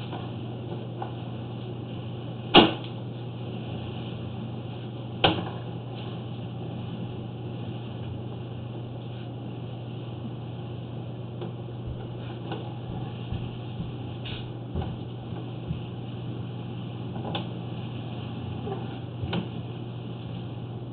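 Steady low electrical hum and hiss while a sewer inspection camera is pulled back through a drain line, broken by two sharp knocks, the louder one about two and a half seconds in and another about five seconds in, and a few lighter clicks later on.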